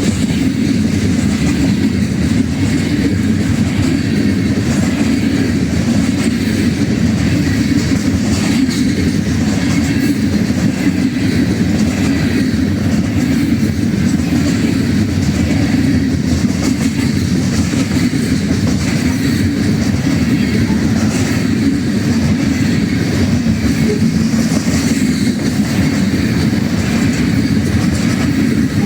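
Ferromex freight train passing at speed, its cars' wheels running steadily and loudly on the rails.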